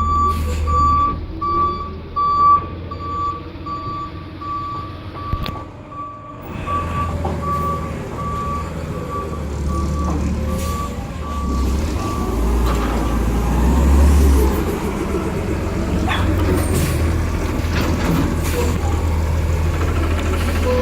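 Garbage truck backing up: its reversing alarm beeps steadily for roughly the first half over the low rumble of the engine. The beeping stops and the engine runs on louder, swelling briefly about two-thirds of the way through.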